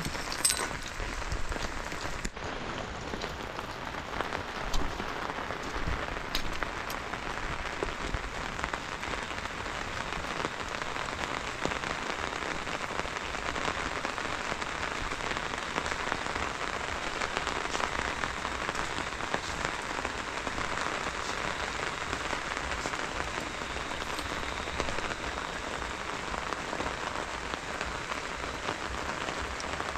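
Steady rain falling: an even hiss of drops, with an occasional louder drop.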